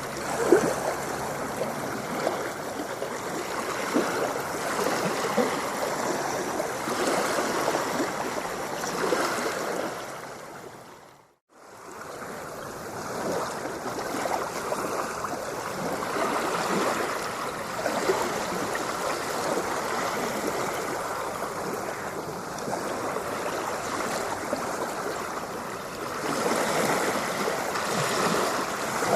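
Ocean water washing and splashing steadily. About eleven seconds in it fades out to near silence for under a second, then fades back in.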